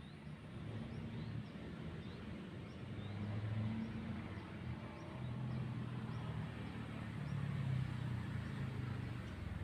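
A low engine-like hum that shifts slightly in pitch, with faint short high chirps repeating about twice a second.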